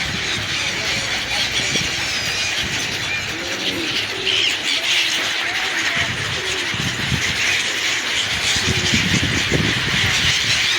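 A flock of birds calling all at once in a dense, steady chatter of many overlapping high chirps.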